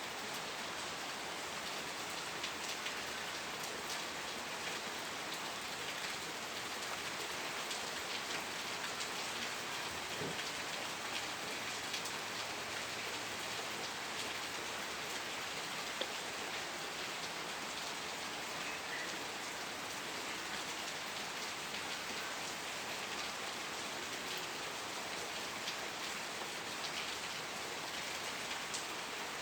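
Steady rain falling on surfaces: an even hiss scattered with the patter of individual drops.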